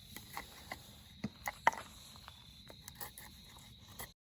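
A string of irregular small clicks and cracks, the loudest about halfway through, over a faint steady high-pitched tone; the sound cuts off just before the end.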